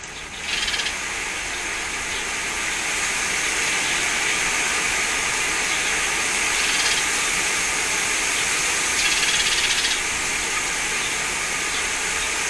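Strong wind, a steady rushing hiss that swells about half a second in.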